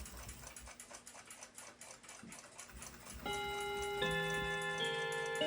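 Steady, faint clock-like ticking, several ticks a second, joined about three seconds in by louder background music of held, changing chords, with the ticking carrying on under it.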